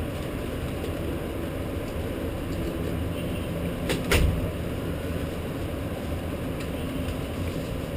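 Steady rain with a low background rumble, and a short sharp clack about four seconds in.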